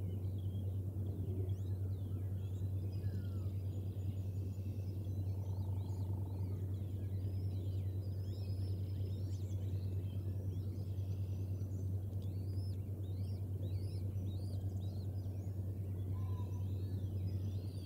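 Many faint, quick high bird chirps, thickest about two-thirds of the way through, over a steady low hum and outdoor background noise.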